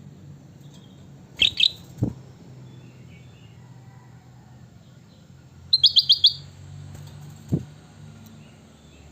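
Kutilang batik bird giving short, bright chirps: a quick pair about a second and a half in, then a fast run of about five notes a little past the middle. Two soft thumps and a low steady hum sit underneath.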